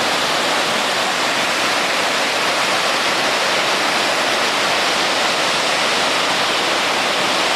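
Large waterfall crashing with a steady, loud rush of falling water.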